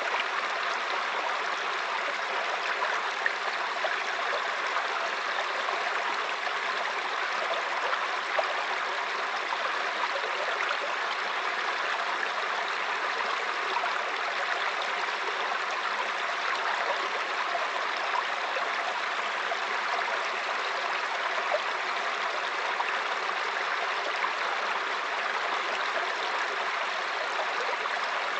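Mountain stream running over rocks, a steady babbling of water.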